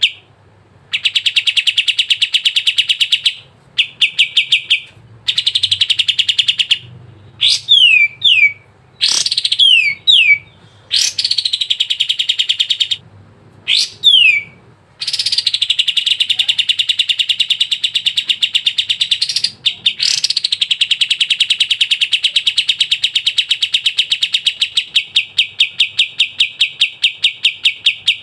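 A kapas tembak songbird singing loudly in long, fast runs of evenly repeated chipping notes. The runs are broken by short pauses, and near the middle come a few quick falling whistled notes.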